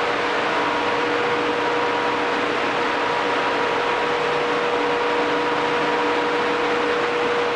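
Ship's engine room machinery running steadily: a loud even roar with a constant hum of a few steady tones.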